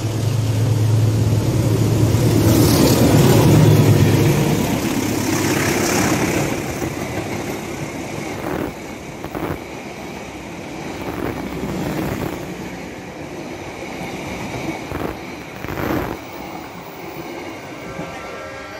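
Passenger train passing close by: the diesel locomotive's engine drone is loudest a few seconds in and fades, then the coaches roll past with a steady rumble and sharp wheel clacks over the rail joints.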